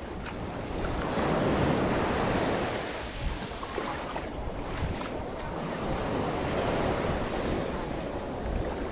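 Sea waves washing ashore, swelling about a second in and easing off, with wind buffeting the microphone.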